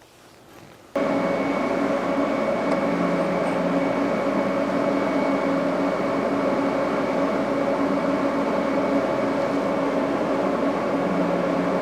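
TIG welder running: a steady buzzing hum that switches on abruptly about a second in and holds an even level.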